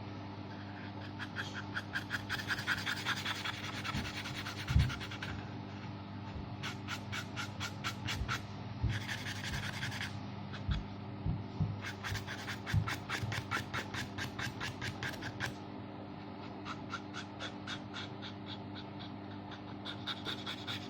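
Paintbrush scrubbing acrylic paint onto a small wooden bird. The strokes come as a quick, scratchy back-and-forth rhythm in four runs of a few seconds each, with short pauses between, over a steady low hum.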